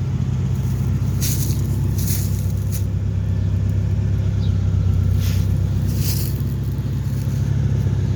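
Car engine idling steadily with a low, even hum, its hood closed. A few brief rustles sound over it.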